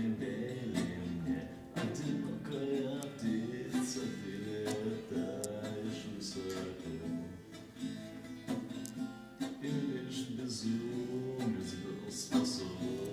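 Music: an acoustic guitar strummed steadily through a passage of a song.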